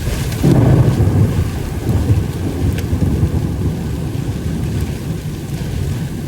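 Thunder rumbling during a rainstorm. It swells about half a second in and rolls on for a few seconds over steady rain.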